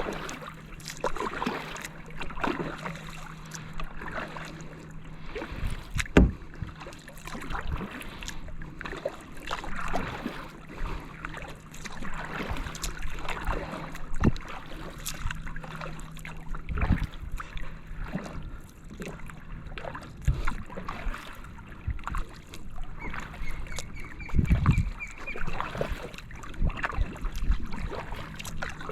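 Kayak paddle strokes: the blades dip and splash in the water every second or two. Near the end a bird gives a short run of high chirps.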